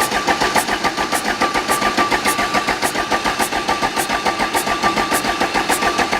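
Volvo diesel engine being turned over by its starter motor, cranking with a fast, even chugging rhythm and a steady whine, not catching. It is cranking while air is bled from the fuel system through cracked injector lines.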